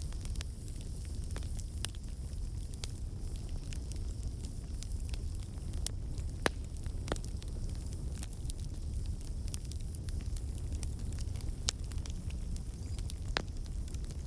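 Wood campfire burning: a steady low rumble of flames with scattered sharp pops and crackles from the logs, a few louder snaps in the second half.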